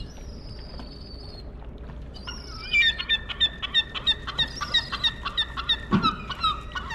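A flock of birds calling: many short, repeated calls at several pitches overlapping, beginning about three seconds in, over a steady low hum.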